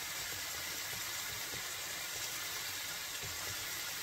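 Steak and onions sizzling in a frying pan: a steady hiss with faint scattered pops.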